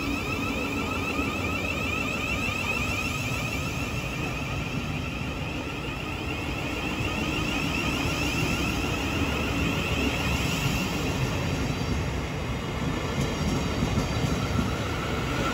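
Thameslink Class 700 electric multiple unit pulling away, its traction motors giving a high whine that rises in pitch as it accelerates, over the rumble of the wheels on the rails.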